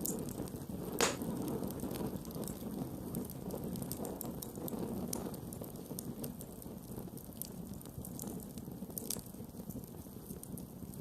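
Wood campfire burning: a steady low rush of flames with scattered crackles and one sharp pop about a second in.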